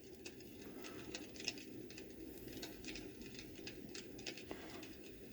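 Campfire sound from a Magicteam SN-A3 white noise machine: a crackling fire, irregular small pops and crackles over a soft low hiss, played faintly through the machine's small speaker.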